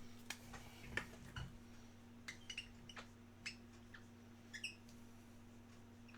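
Faint, scattered light clicks and taps of small objects being handled on a tabletop, about ten in all and irregularly spaced, over a steady low hum.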